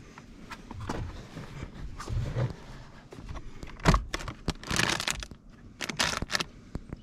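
Plastic car-interior parts being handled while getting at the cabin air filter: scattered clicks, a sharp knock about four seconds in, then two short bursts of scraping rustle.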